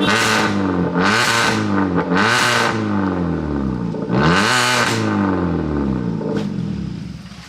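Hyundai Creta's engine revved in neutral through a loud valved Valvetronix aftermarket exhaust with the valve open: four sharp throttle blips rising and falling in pitch, settling back to a quieter idle near the end.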